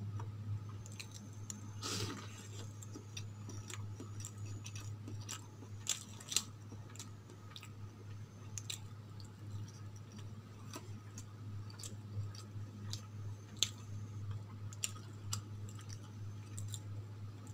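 Close-miked eating sounds: soft idli dipped in sambar and chutney being chewed, with scattered sharp clicks, over a steady low hum.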